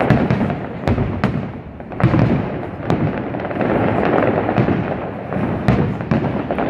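Aerial fireworks bursting in quick succession: sharp cracks scattered over a continuous rumble of overlapping booms, recorded on a smartphone.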